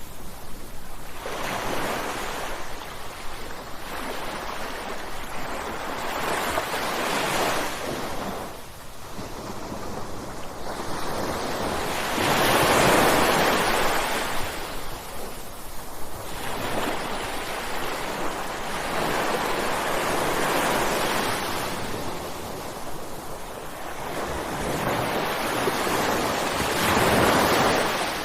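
Ocean waves breaking on a shore, the surf swelling and falling back every few seconds; the biggest wave breaks about halfway through, and another comes near the end.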